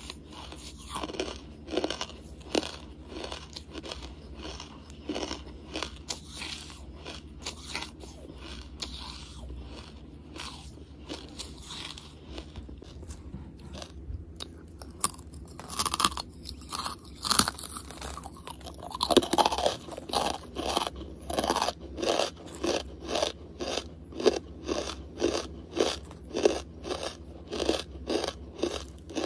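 Close-miked crunching and chewing of a hard lump of charcoal. The mouth bites into the lump about halfway through, with the loudest crunches; steady chewing follows at a bit more than one crunch a second.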